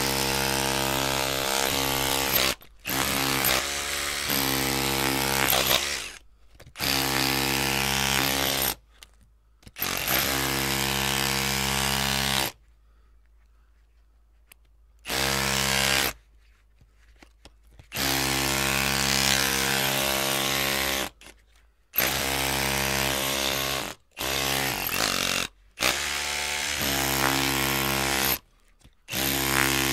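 Electric drill motor running in repeated bursts of one to three seconds, switched on and off about ten times, each burst a steady whirring hum. There is one longer pause of a couple of seconds about halfway through.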